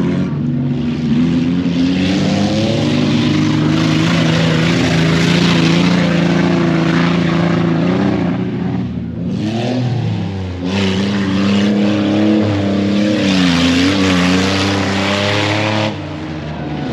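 Off-road race truck's engine revving hard and held at high revs. It eases off briefly about halfway through, then comes back on with the pitch rising and falling, and drops in level near the end.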